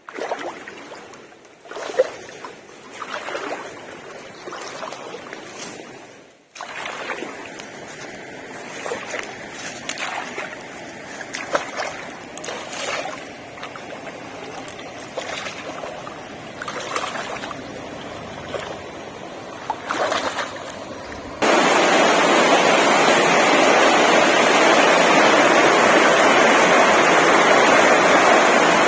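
Scattered soft knocks and rustles. About two-thirds of the way in, a steady, loud rush of flowing water starts suddenly and carries on.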